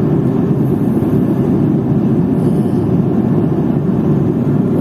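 Airliner cabin noise in cruise flight: a steady, deep, even noise of engines and airflow that does not change.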